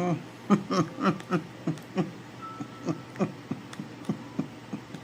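A person laughing in a long run of short rhythmic 'ha' pulses, about four a second, louder at first and fading.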